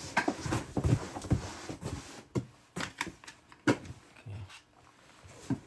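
Packaging being handled as an RC helicopter is taken out of its box: irregular rustling and crinkling with light clicks and a couple of sharper knocks.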